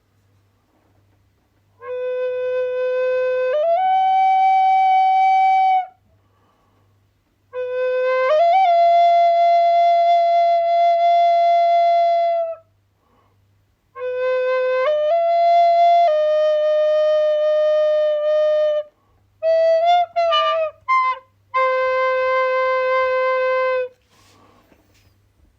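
Solo wind instrument playing a slow melody of long held notes in separate phrases with pauses between, with a quick run of short notes a little past the middle.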